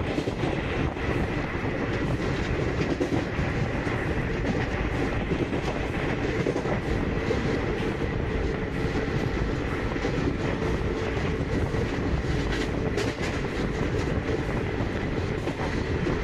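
Garib Rath Express passenger coach running along the track: a steady rumble of wheels on rails with frequent clicks from the rail joints and a faint steady high tone.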